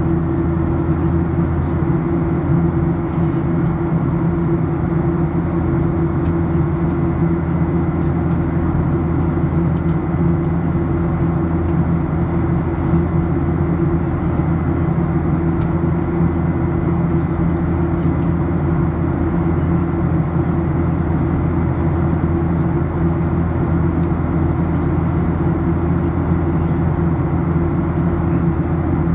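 Boeing 737-800 cabin noise in flight: the steady drone of its CFM56 engines and the rush of air along the fuselage, with a low hum under it that does not change.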